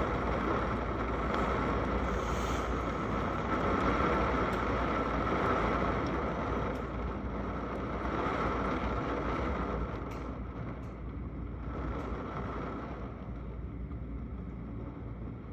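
Steady rushing noise of rain, a little quieter and duller after about ten seconds.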